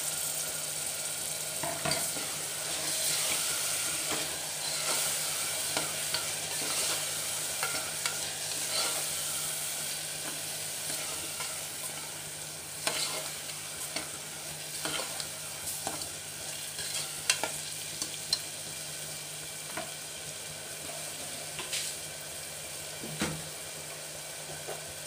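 Green chillies and ground shallot paste sizzling in hot oil in an aluminium pressure cooker, stirred with a steel ladle that scrapes and knocks against the pot now and then. The sizzle eases a little in the second half, while the ladle's knocks come more often.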